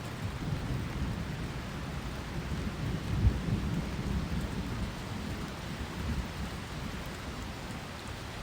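Heavy rain falling steadily, with thunder rumbling low underneath and swelling about three seconds in.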